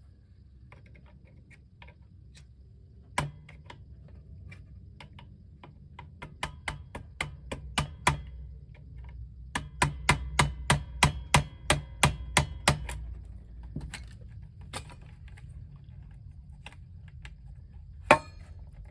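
Tapping on an RCA Victor 45-J record player's tone arm to drive it down out of a very tight connection. A single tap comes first, then a run of sharp taps quickening to about three a second for a few seconds, and one louder tap near the end.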